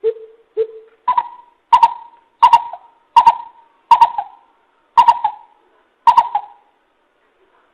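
Coucal calling: a series of nine deep hoots, the first two lower, then stepping up in pitch and slowing as the series goes on. It is a recorded lure call of the kind played to draw coucals into traps.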